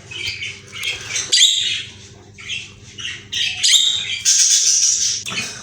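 Budgerigars chirping and chattering in short bursts, with a harsher squawking stretch of about a second past the middle.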